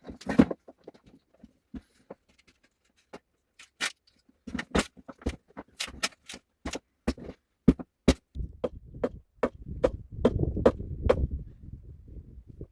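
A series of sharp, irregular knocks and clicks, coming thicker in the second half, with a low rumble under them for a few seconds near the end.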